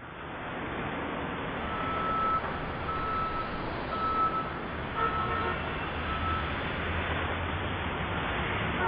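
Steady street traffic noise with a low rumble, and a high electronic beep sounding five times, about once a second, midway through.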